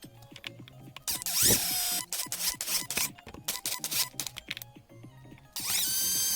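Hilti TE 76 ATC combi hammer switched on twice in short runs, its motor whine rising as it spins up and then holding steady for under a second each time, over background music.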